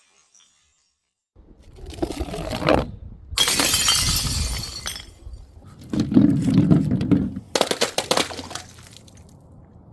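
Glass shattering: a long crash about three and a half seconds in, a duller heavy impact, and a second sharp burst of breaking glass about eight seconds in.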